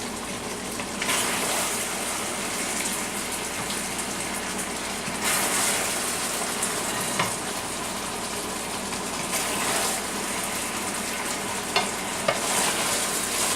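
Chicken and vegetable stir fry sizzling in a hot wok, the hiss surging in several stretches as it is stirred and scooped, with a few sharp clicks of the utensil against the wok.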